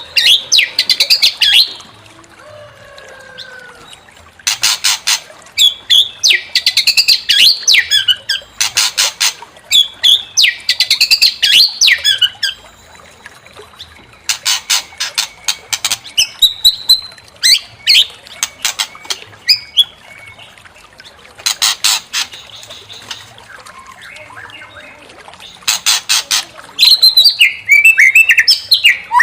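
White-rumped shama (murai batu) singing loudly: fast rattling runs of notes every few seconds, between quick, varied whistled phrases, with a dense burst of song near the end.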